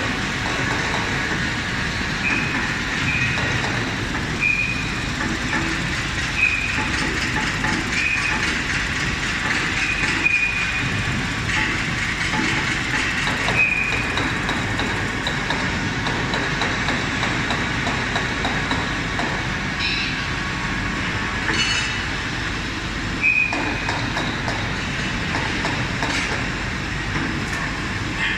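Robotic arc welding of fan impeller blades: a steady arc noise, with short high-pitched tones recurring every second or two through the first half and a few more later on.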